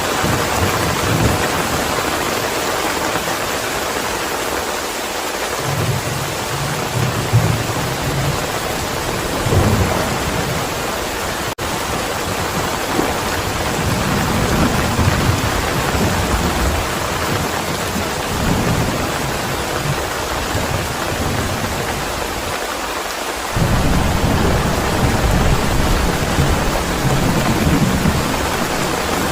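Steady heavy rain with repeated low rolls of thunder. A stronger, longer rumble sets in suddenly about three quarters of the way through.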